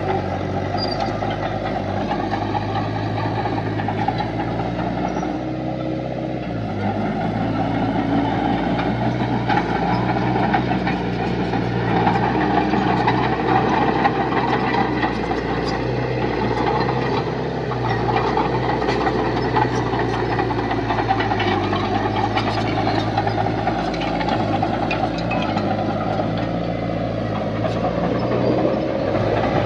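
Heavy diesel engine of earth-moving machinery running steadily, a little louder from about twelve seconds in.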